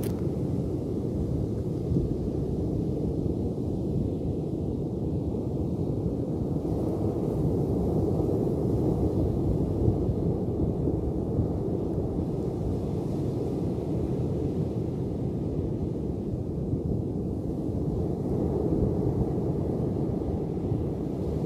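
Ocean waves heard as a continuous low rumbling wash, steady throughout with no single wave break standing out.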